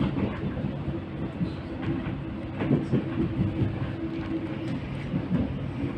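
X'Trapolis 100 electric train running, heard from inside the carriage: a steady rumble with a low hum and a few knocks from the wheels over the track.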